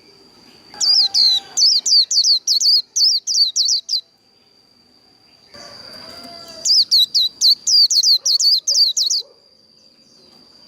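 White-eye (vành khuyên) singing its fast 'líu' song: two bouts of quick, high down-slurred notes, about three a second, the second starting past the middle. A steady high-pitched tone runs underneath.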